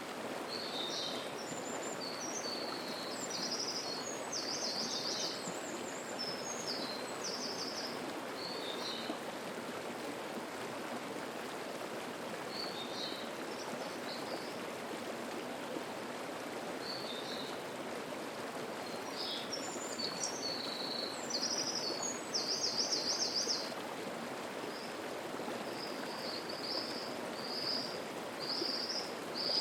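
Mountain stream flowing steadily over rocks, with small birds singing above it in high, quick phrases. There is a gap in the birdsong through the middle, and a louder burst of song about two-thirds of the way through.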